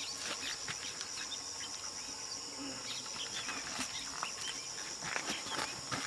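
Outdoor insect chorus: a steady high-pitched trill, with many short scattered chirps and clicks over it.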